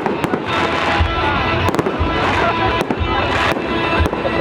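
Fireworks display going off: deep booms about once a second over a string of sharp bangs and crackles, with music playing underneath.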